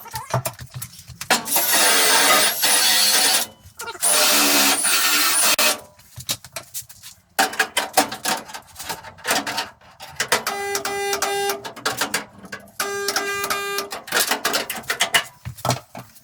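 Tong-type resistance spot welder buzzing in repeated bursts of about a second as it welds steel brackets, with two longer, noisier hissing stretches of about two seconds near the start.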